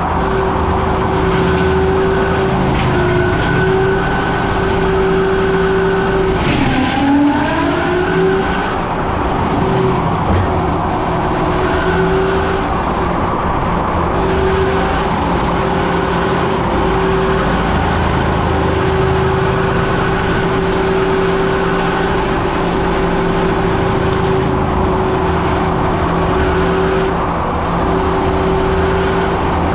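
Caterpillar 289D3 skid steer running steadily with its mower attachment, a sustained whine over the engine; about seven seconds in the pitch sags briefly as it takes load, then comes back up.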